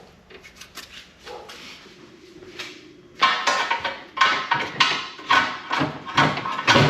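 Hammer blows on steel under a car: scattered light knocks and clinks, then from about three seconds in a run of loud, ringing strikes about twice a second.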